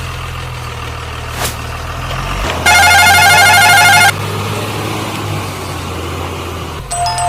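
Heavy vehicle engine running steadily with a low hum. About three seconds in, a loud warbling electronic tone sounds for about a second and a half. Near the end, after a brief break, steady beeping tones begin.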